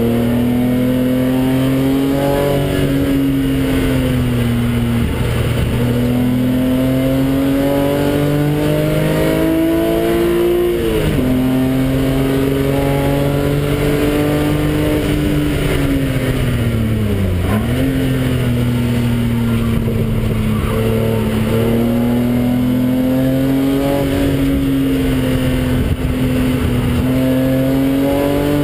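Car engine heard from inside the cabin, driven hard at high revs with the pitch slowly climbing under acceleration. The revs drop sharply and recover about eleven seconds in and again about seventeen seconds in, as at gear changes or lifting for a corner.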